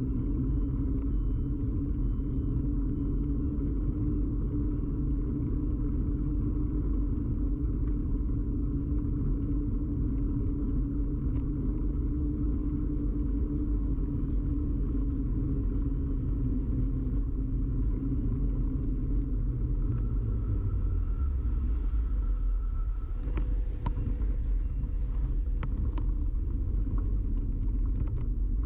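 Steady rumble of a bicycle ride picked up through a camera mounted on the bike: tyre and frame vibration carried into the camera, with a few sharp clicks or rattles near the end.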